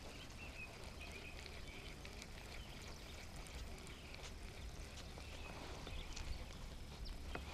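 Faint outdoor ambience on open water: a steady low wind rumble on the microphone, with light water lapping and small ticks. A faint bird chirps a few times near the start.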